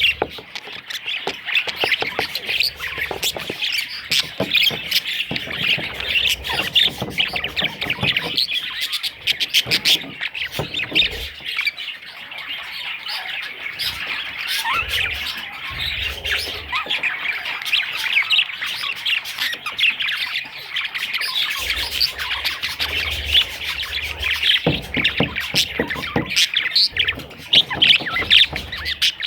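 Budgerigars chirping and squawking continuously, a dense, rapid chatter of many short calls.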